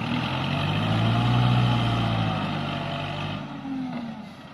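A dump truck's diesel engine running, growing louder to a peak about a second and a half in, then fading away.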